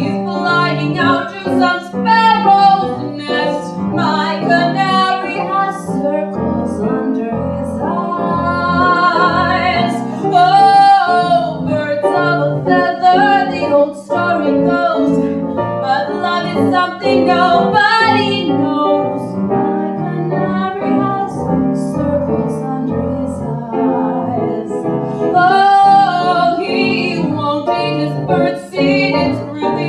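A woman singing a cabaret song over piano accompaniment.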